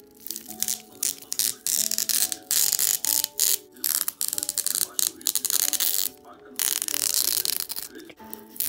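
Bursts of dense, crackling, ratchet-like clicking from something being handled close up, over soft background music with sustained piano-like notes.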